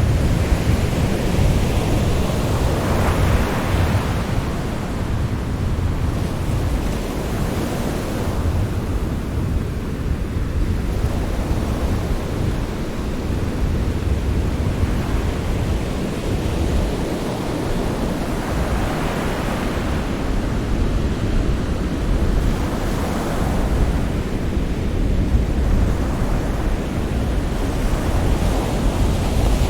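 Sea surf: a steady rush of waves, with slow swells every several seconds as the waves come in.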